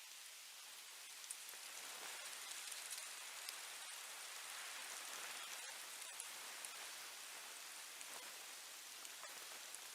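Steady faint patter of rain, with scattered tiny drop ticks.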